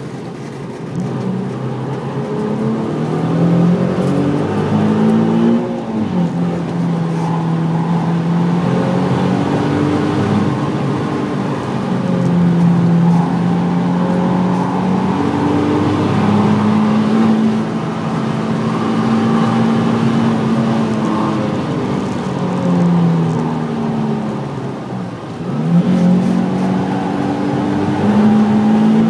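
Nissan 350Z's 3.5-litre V6 heard from inside the cabin, driven hard on a track: the engine note climbs and falls as it accelerates and eases off, with sharp dips about six seconds in and again about twenty-five seconds in.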